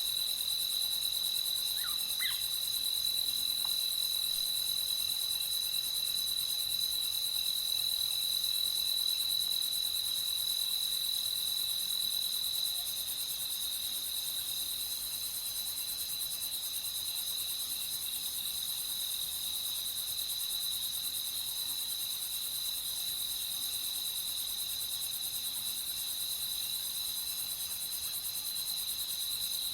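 Crickets chirping in a dense, steady, high-pitched chorus with no break, and a couple of faint short calls about two seconds in.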